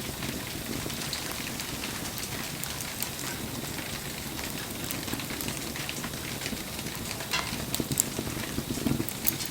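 Wood campfire crackling in the rain: steady patter of rain under scattered sharp pops and snaps from the burning wood, with a few louder pops in the last couple of seconds.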